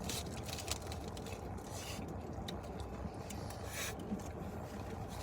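Steady low rumble with light, scattered clicks and rustling over it.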